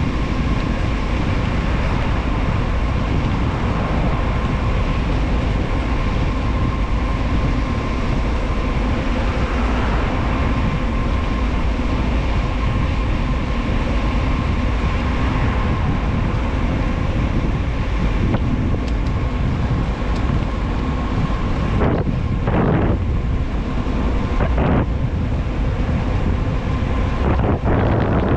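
Wind rushing over the microphone of a bicycle descending fast, a loud, steady rush. A few brief knocks or gusts come near the end.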